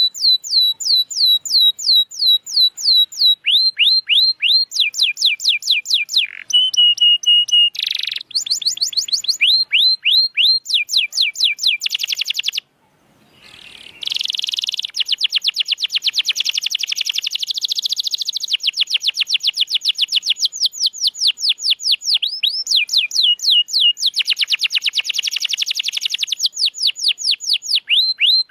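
Domestic canary singing a long rolling song of fast repeated sweeping notes, switching to a new repeated phrase every second or two, with a brief pause about twelve seconds in.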